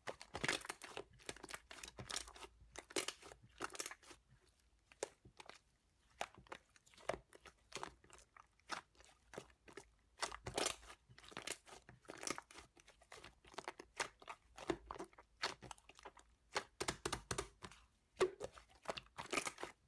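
Slime being squeezed and kneaded by hand: a steady stream of irregular crackling, popping clicks.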